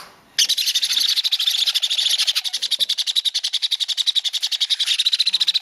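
Jenday conure chick's rapid, high-pitched pulsing begging call while being syringe-fed, starting about half a second in.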